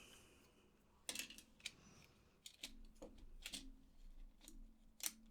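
Faint, scattered light clicks and taps of a PS4 controller's plastic shell and internals being handled, about eight irregular ticks over a few seconds.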